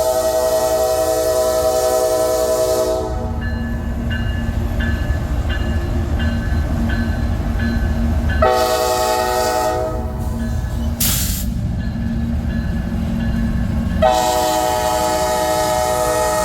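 Diesel freight locomotive's multi-chime air horn sounding three long blasts over the steady rumble of the passing train. Between the first two blasts a bell rings about twice a second, and there is a brief high hiss near the middle.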